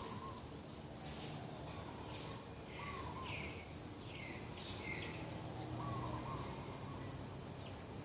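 Birds calling: several short falling chirps from small birds, with a dove's soft short coo recurring about every three seconds.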